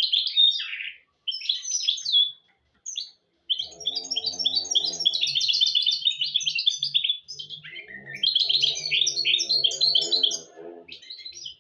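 Goldfinch × canary hybrid (mule) singing: fast, twittering phrases broken by short pauses. Under two of the phrases runs a quieter low, pitched sound. The song cuts off suddenly at the end.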